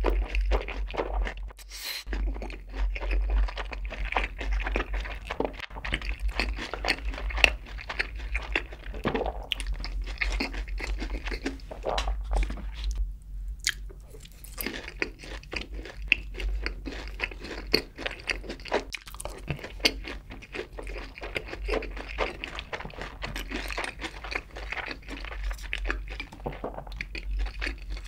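Close-miked chewing and crunching of sweet-spicy sauced Korean fried chicken eaten with rice, in dense, irregular crackly bites, with a short lull about halfway through.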